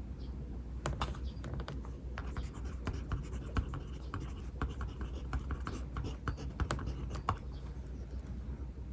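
Writing by hand on paper: irregular scratching and tapping strokes of the writing tip, thinning out near the end, over a steady low hum.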